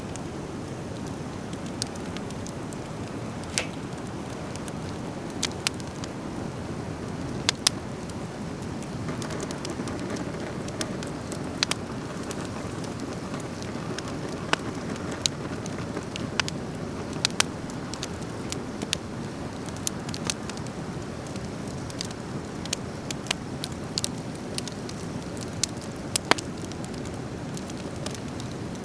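Driftwood fire crackling: sharp, irregular pops and snaps, a couple of dozen of them, over a steady low rush.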